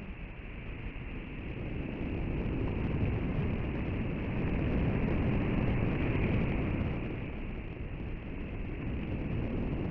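Seaside wind and surf: a steady rushing noise that slowly swells in the middle and eases again near the end.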